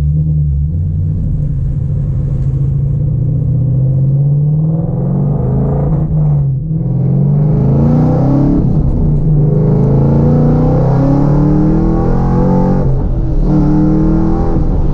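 Ford Mustang GT's 5.0 V8 through Flowmaster mufflers and a catless X-pipe, accelerating under load. The exhaust note climbs in pitch, drops back briefly about six and a half seconds in and again near thirteen seconds, then climbs again.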